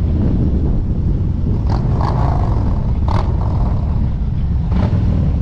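Harley-Davidson V-twin motorcycle engine running steadily under way, a deep throbbing drone, with three short noisy blips.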